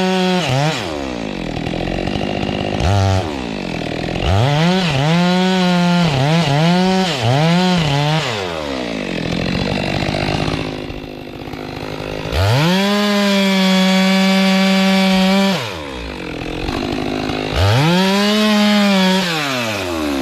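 Stihl two-stroke chainsaw revving up and down between idle and full throttle. It gives several quick blips, then holds full throttle for about three seconds in the middle and revs once more near the end.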